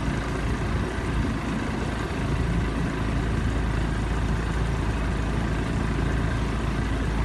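A motorboat's engine running steadily at low speed, a constant low hum with water and wind noise over it.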